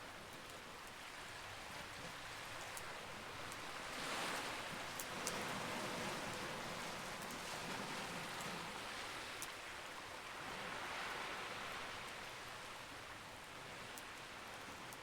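Campfire crackling with a few sharp pops, over a continuous wash of sea waves that swells and ebbs.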